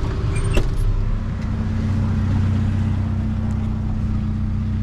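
Truck engine running as the vehicle drives on, with a steady low hum that shifts to a new even note about a second in. A short click comes just before the change.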